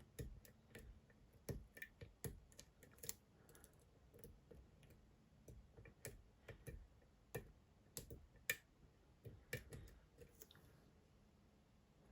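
Faint, irregular small metallic clicks and taps of a lock pick and tension wrench working the pins of a Dom IX Twinstar lock, which has two rows of pins. The clicks stop about ten seconds in.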